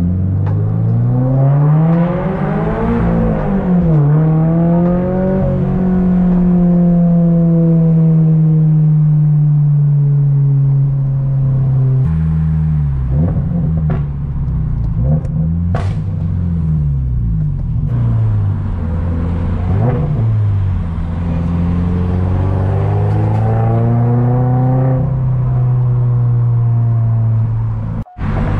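2023 Toyota GR86's 2.4-litre flat-four engine heard from inside the cabin while driving, the revs rising and falling several times as the car accelerates and eases off.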